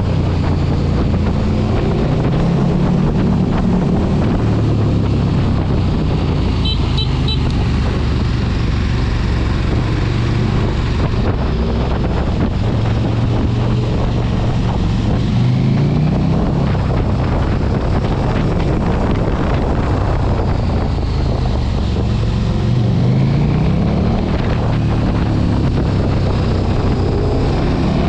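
Sport motorcycle engine running at road speed, its pitch rising a few times as it revs up, under heavy wind noise on the microphone. Three short high beeps come about seven seconds in.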